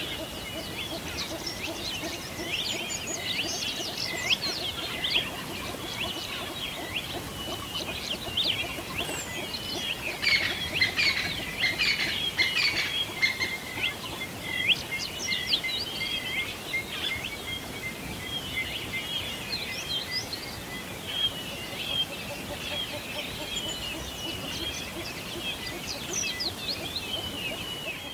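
A chorus of small songbirds chirping and singing continuously, many short high twitters and trills overlapping, busiest around the middle.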